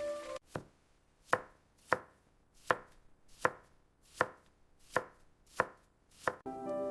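Knife chopping on a cutting board: about nine slow, even strokes, one roughly every three quarters of a second, each a sharp knock that rings briefly.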